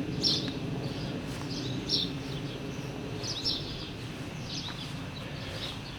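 A bird chirping short, high calls every second or two over a steady low background noise.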